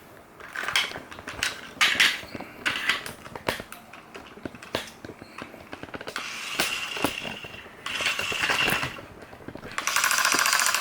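Plastic clicks and knocks from handling a battery-powered toy drill and its parts, then the toy drill's small motor whirring in short runs, twice for about a second each and then louder about ten seconds in.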